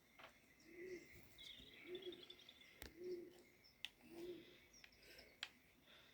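Faint bird calls: a low coo repeated about once a second, with a brief high twittering trill in between and a few faint clicks.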